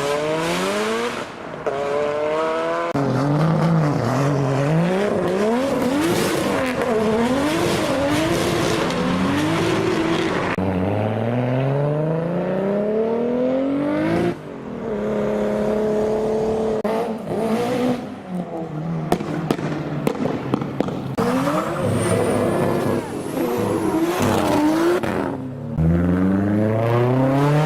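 Car engines revving hard, their pitch climbing and dropping again and again, with long rising pulls, in a string of short clips that change abruptly every few seconds.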